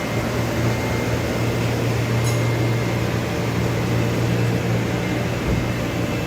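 Doosan Puma MX1600ST CNC turning and milling center running, a steady low machine hum with a faint high whine.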